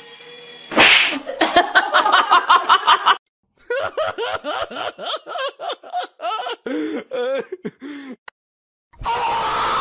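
A small toy helicopter whirs steadily, then a sudden crash about a second in cuts it off. Several seconds of rhythmic, pulsing laughter follow.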